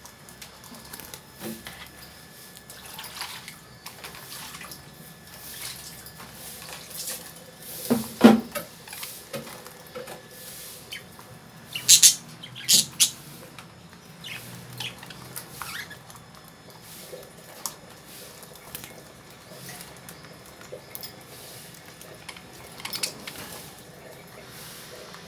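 Lovebirds shelling husked foxtail millet in a cage: a steady scatter of small clicks and rustles. There is a louder knock about eight seconds in and a few sharp high-pitched sounds around twelve seconds.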